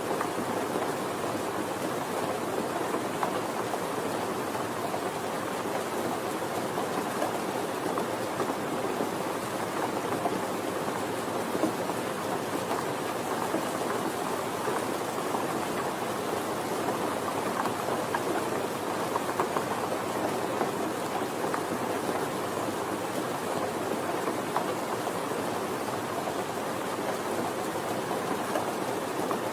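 Steady rain: an even hiss of falling rain with scattered drop ticks, holding level throughout.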